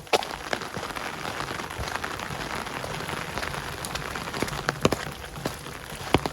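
Steady rain falling, with scattered sharp drop hits standing out now and then.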